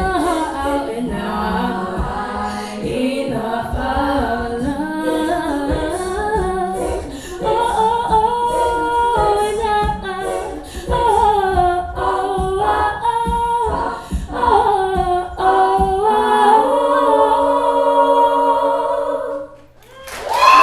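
Treble-voice a cappella group singing in close harmony without lyrics, over a vocal-percussion beat, then holding a final chord that cuts off about a second before the end.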